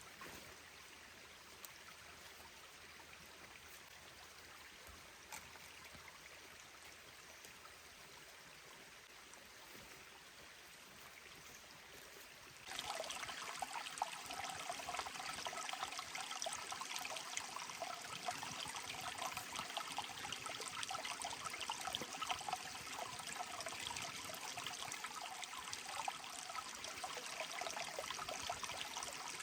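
A mountain stream running: a steady rush and trickle of water, faint at first, then suddenly much louder about twelve seconds in.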